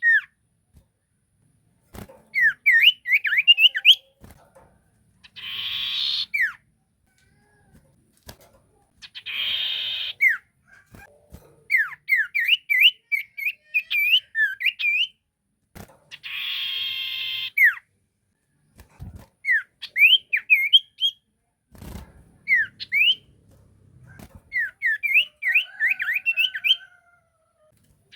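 Sirtu songbird calling: runs of quick, rising whistled chirps alternate every few seconds with a harsh buzzing call about a second long.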